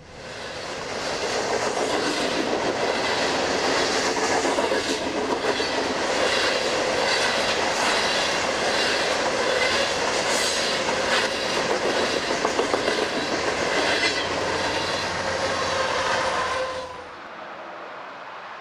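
Coal train hopper cars rolling past close by, wheels clicking over rail joints in a loud, continuous rumble, with a thin wheel squeal toward the end. The sound cuts off abruptly about a second before the end, leaving a much quieter steady background.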